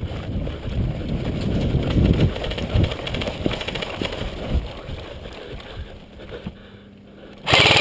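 Running footsteps and thudding jostle of gear as airsoft players rush forward. Near the end a loud, rapid full-auto burst from an airsoft gun begins.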